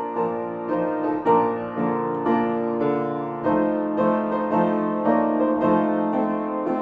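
Piano music, with notes struck every third of a second or so over sustained chords.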